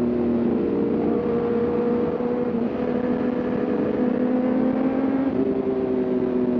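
Sport motorcycle engine running under way, its pitch holding fairly steady with a few small shifts up and down, over a steady rush of wind noise.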